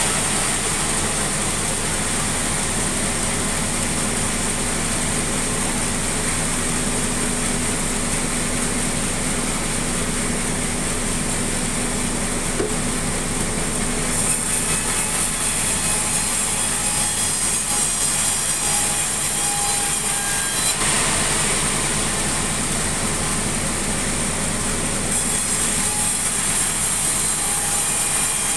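Sawmill saw cutting sengon timber, running steadily under load with a strong high hiss of the blade in the wood. The cutting sound changes a few times as boards are fed through.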